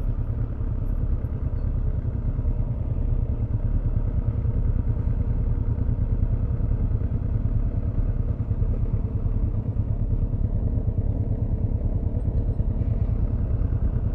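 2007 Kawasaki ZX-6R inline-four with a Yoshimura carbon end can, running at a steady speed under way, mixed with a constant low rush of riding noise.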